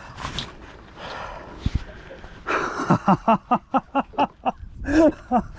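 A man laughing, a quick run of about ten short breathy "ha" sounds, then one more vocal sound near the end.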